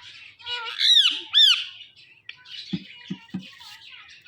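Indian ringneck parrot squawking twice in quick succession about a second in, with softer chattering calls around them.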